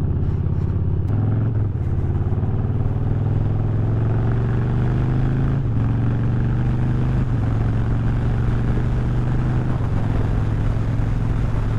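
Harley-Davidson V-twin engine and exhaust running steadily under way, its note stepping slightly up or down a few times.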